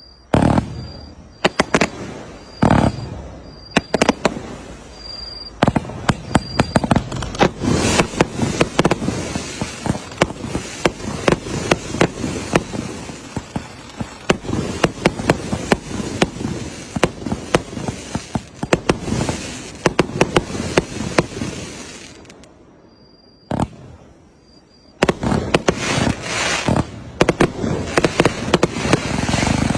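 Fireworks going off: a few separate bangs at first, then a long dense run of rapid bangs and crackles. A short lull with a single bang comes near the end, followed by another dense run.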